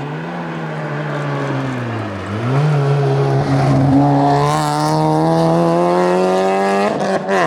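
Rally car engine under hard throttle, growing louder as it comes closer. The pitch drops briefly about two seconds in, then climbs slowly, with a short break near the end, like a quick gear change.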